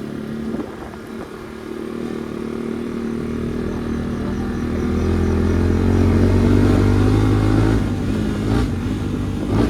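Motorcycle with an aftermarket exhaust running, its engine note growing louder about halfway through and dropping off near the end. A couple of sharp pops come from the exhaust as the throttle closes.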